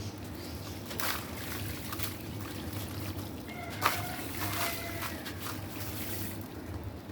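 Black stone crumbling wet in water: scattered sharp crackles and crunches over a soft trickling, the sharpest crack about four seconds in.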